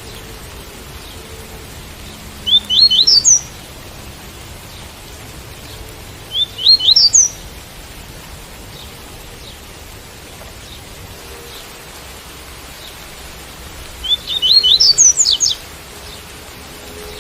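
Double-collared seedeater (coleiro) singing its tui-tui song: three short phrases of quick upward-sweeping notes, the last one longest, near the end. A steady hiss of rain runs under them.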